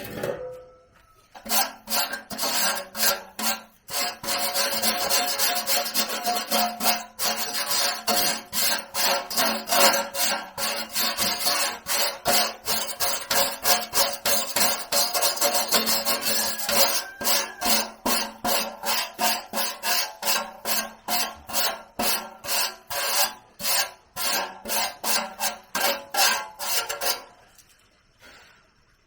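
Hand filing: rhythmic rasping strokes, about two to three a second, starting about a second and a half in and stopping near the end.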